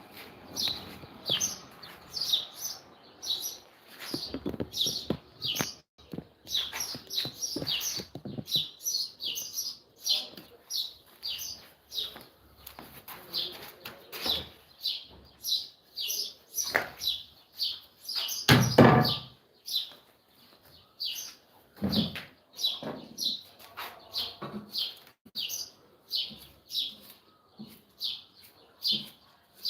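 A bird chirping over and over, short falling chirps about twice a second, with a single loud thump about nineteen seconds in.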